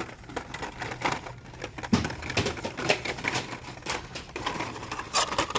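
Irregular clicking, tapping and crinkling of plastic blister packaging as carded die-cast toy cars are handled on store pegs.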